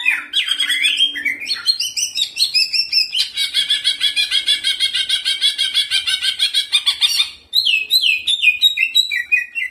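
A mixed bird-lure recording of many small songbirds calling over each other. A fast, steady trill of rapid chirps runs through the middle, and near the end it gives way to a series of separate down-slurred whistled notes.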